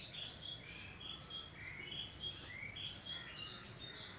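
Small birds chirping faintly in the background: a steady stream of short, quick chirps that slide up and down in pitch.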